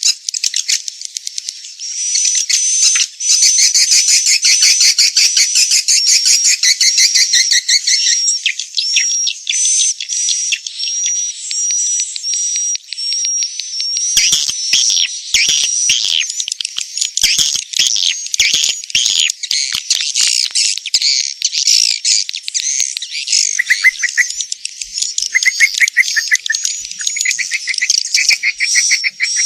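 Edible-nest swiftlets calling in a dense, continuous chatter of rapid clicking trills and high chirps, with a short high note repeated over and over. This is a recorded swiftlet lure call, played to draw swiftlets into a nesting house.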